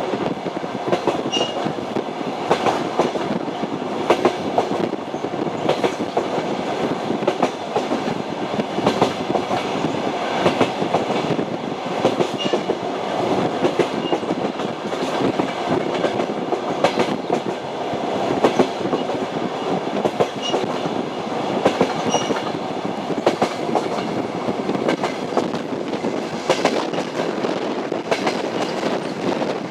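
Train wheels clattering over rail joints: a steady rolling rumble with frequent clicks and knocks from the running gear.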